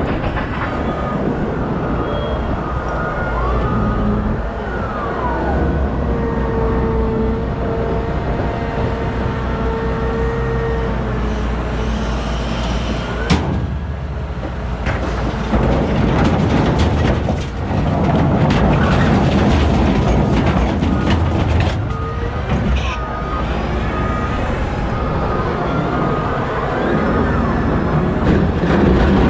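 Heavy diesel machinery working: a large wheel loader's engine runs under load, with steady whining tones and pitch glides from the drivetrain and hydraulics. A single sharp knock comes about 13 seconds in.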